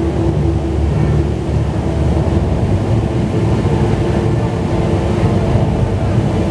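Steady roar of the Rain Vortex, Jewel Changi's tall indoor waterfall, pouring into its basin. It is a loud, even rush weighted low in pitch.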